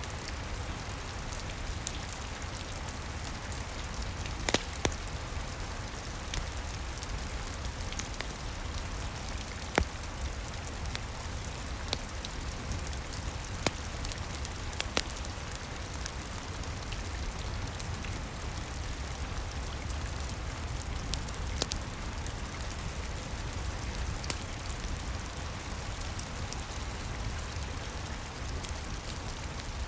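Steady rain with a low rumble underneath, and scattered sharp pops from a crackling wood fire every few seconds.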